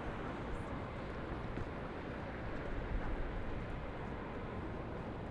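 Steady city din of distant traffic, an even rumble with no single event standing out.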